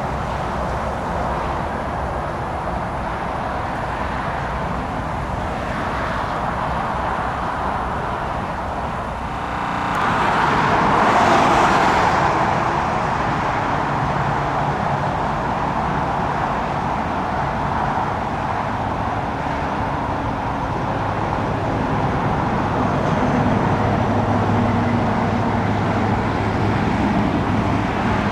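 Steady rushing vehicle engine noise that swells louder about ten seconds in and then settles into a lower steady hum.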